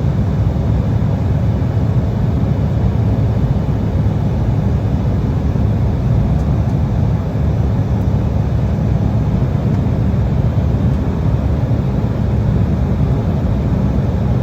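Passenger-cabin noise of an Embraer 175 regional jet in flight: a steady, low rumble of engine and airflow noise from its turbofans.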